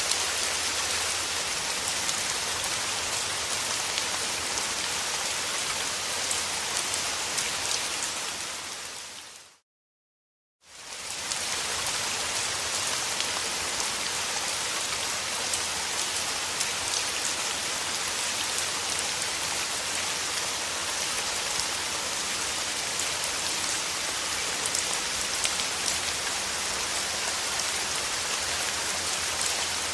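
Steady rain falling on a surface, a dense even hiss with fine pattering of drops. About eight seconds in it fades out to a second of complete silence, then fades back in to the same steady rain.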